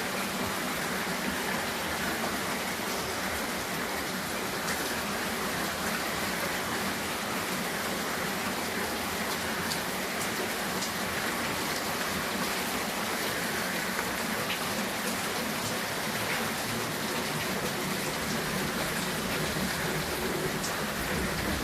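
Rain falling steadily, an even hiss with scattered ticks of single drops striking.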